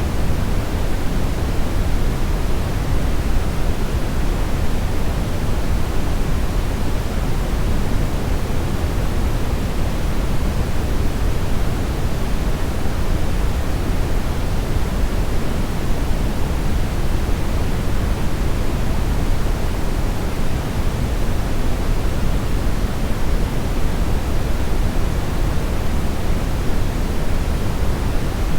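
Steady brownish noise: an even, unchanging rush weighted toward the low end, with little in the highs.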